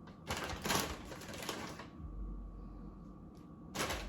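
Light kitchen handling noises from food preparation: a quick run of small clicks and rustles for about a second and a half, then another burst near the end.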